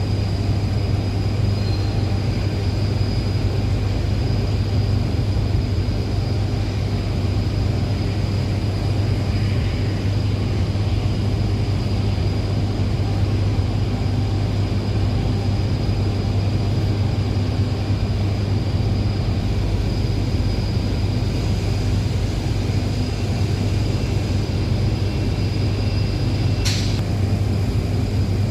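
Steady, loud hum of heavy power-plant machinery, with a thin high whine running over it and a brief sharp click near the end.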